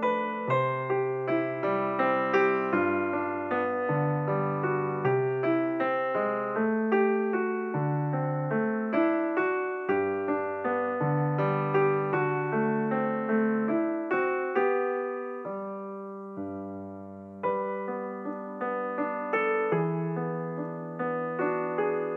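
Instrumental piano music: a gentle melody of struck notes over a low bass line. About two-thirds of the way through, one chord is left to die away before the playing resumes.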